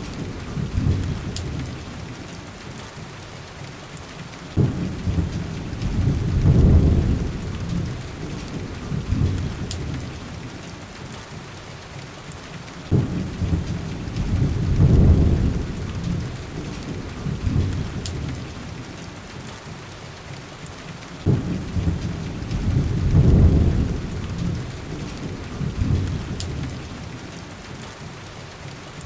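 Heavy rain falling steadily, with three long, deep thunder rumbles that each start suddenly, swell and roll away, about eight seconds apart.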